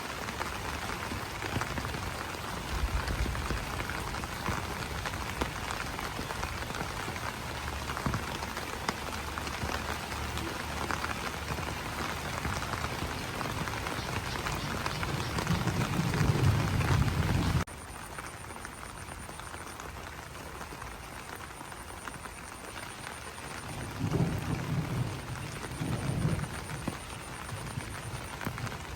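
Rain falling on banana leaves: a dense, steady patter of drops. About two-thirds of the way through it suddenly turns quieter and thinner, with low rumbles now and then and a faint, high, pulsing trill.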